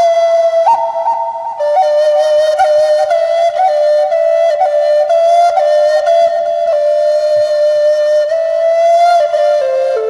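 Native American flute (the Black Natura) playing a slow melody: a short higher note about half a second in, then a long held note decorated with quick grace-note flicks, stepping down to a lower note near the end.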